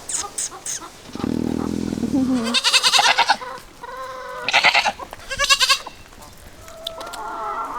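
Goats bleating: a low bleat about a second in, then several louder, higher bleats.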